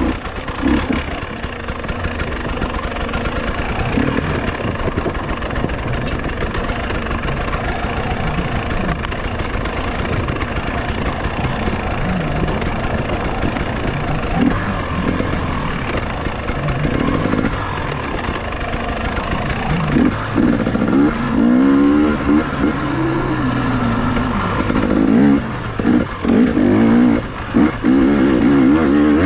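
Two-stroke KTM enduro motorcycle engine running under varying throttle while riding off-road. Its revs rise and fall repeatedly, more sharply in the last third, with brief drops as the throttle is closed.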